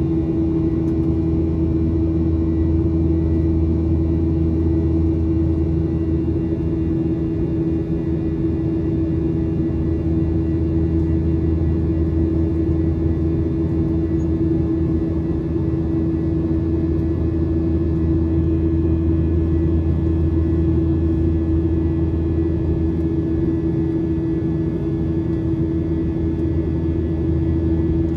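Steady cabin drone of a Boeing 737-800, its CFM56 jet engines and airflow heard from a window seat: a deep rumble with a constant hum over it, unchanging throughout.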